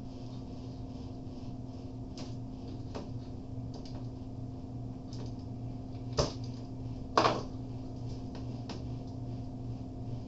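Steady low electrical hum with a faint pulsing hiss, under a few light clicks and two louder sharp knocks about six and seven seconds in: small tools being handled and set down on a workbench during a circuit-board trace repair.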